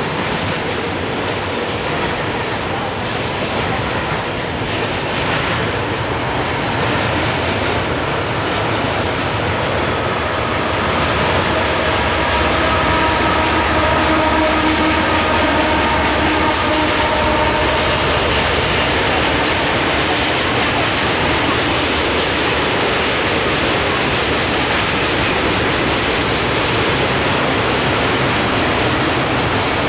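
Long double-stack container freight train rolling past, a steady rumble of wagons on the rails. It grows louder about a third of the way in as a mid-train diesel locomotive passes.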